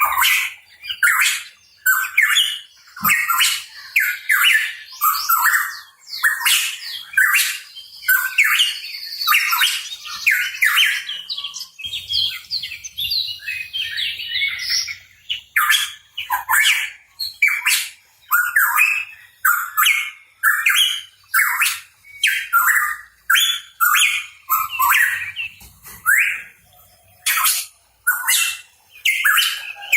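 Pitohui calling vigorously: a rapid, unbroken series of short, harsh chirps and squawks, about two a second.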